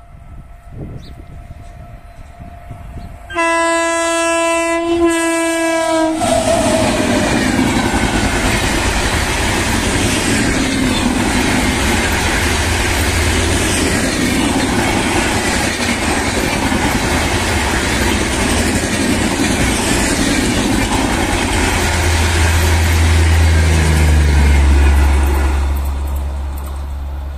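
Passenger train passing at speed on Indian Railways: the locomotive horn sounds for about three seconds with a short break, its pitch dropping as it goes by. A long steady rush of red-and-grey passenger coaches running past follows, swelling slightly near the end before fading away.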